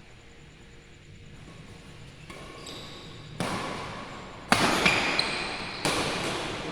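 Badminton play in an echoing sports hall: three sharp hits about a second apart, the loudest in the middle, each ringing on in the hall, with short squeaks from shoes on the court.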